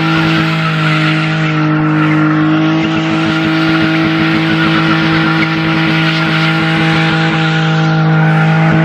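A drift car sliding with its tyres squealing and skidding, the engine held at steady high revs.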